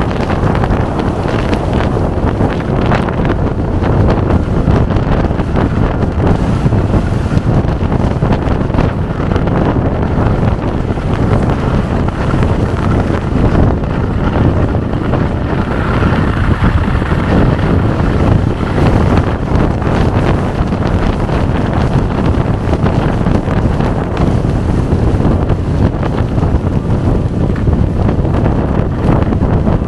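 Strong gale-force wind blasting the microphone: a loud, steady rumbling buffet with no let-up.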